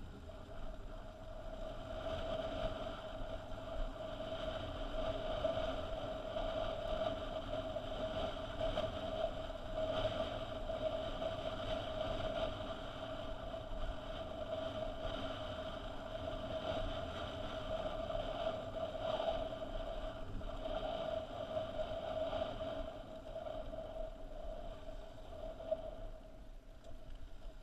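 Motorcycle engine running at a steady speed while riding, a constant drone with a rough rumble underneath.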